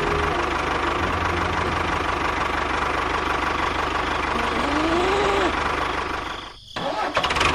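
Small engine of a homemade mini tractor running steadily with an even low beat. It drops out briefly near the end, then picks up again.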